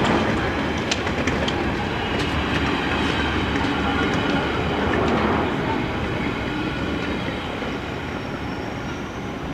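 A train running through a station, a steady rumble with a few sharp clicks of wheels over rail joints early on, easing off slowly, with a faint high wheel squeal near the end.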